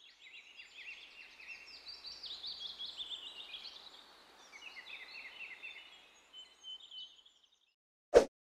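Birds twittering in a steady run of quick falling chirps, dying away after about seven seconds. A single sharp crack near the end, the loudest sound.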